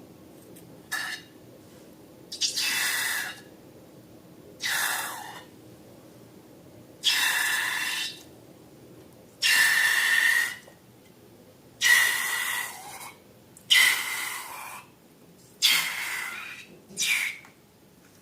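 Air hissing out of a balloon in short bursts, about nine times, several of them with a thin squealing whistle.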